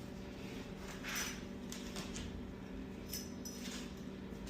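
Light clicks, clinks and a brief scuffle from a husky playing tug of war with a toy on a hard floor, over a steady low hum.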